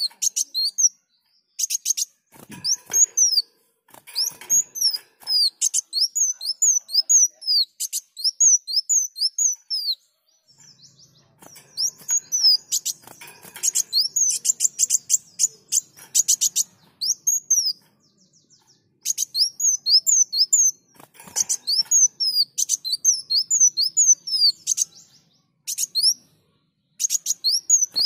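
Kolibri wulung sunbird singing: long runs of rapid, high, thin notes that glide sharply up and down, several a second, broken by short pauses of about a second between phrases.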